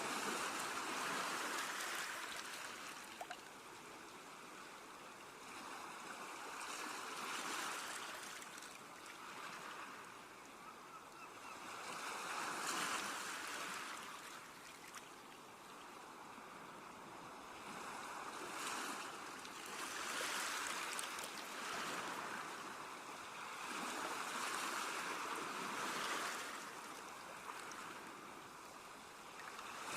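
Sea waves washing onto the shore. The surf swells and falls away about five times, every four to seven seconds.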